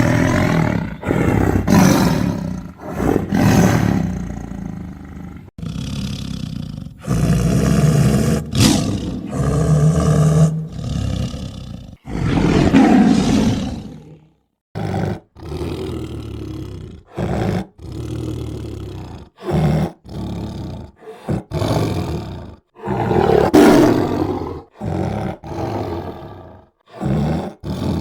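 Tiger roaring over and over: a long string of loud, rough roars, some short and some drawn out, one after another with brief breaks between them.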